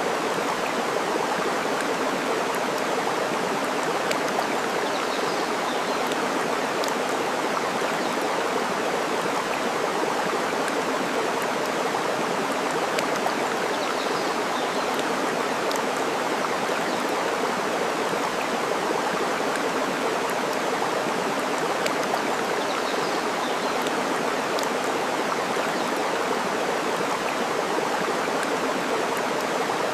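Steady rush of flowing water, with occasional faint crackles from a burning wood fire and a few faint bird chirps.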